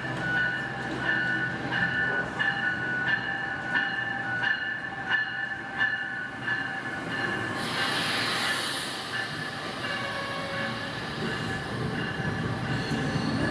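Passenger train rolling slowly, its wheels clicking at a regular beat about every 0.7 s under a steady high wheel squeal. A burst of hiss comes about eight seconds in, after which the squeal goes on without the clicks.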